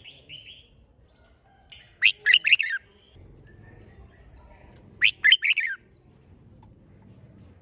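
Red-whiskered bulbul singing: two short phrases of several quick notes each, about three seconds apart, with softer short calls between them.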